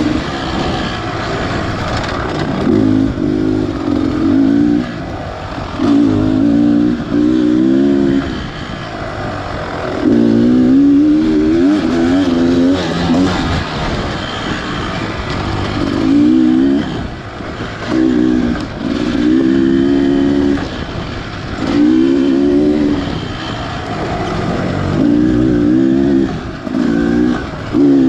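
Beta Xtrainer 300 two-stroke dirt bike engine revving in repeated bursts as the throttle is opened and rolled off, roughly every two seconds, its pitch climbing with each burst.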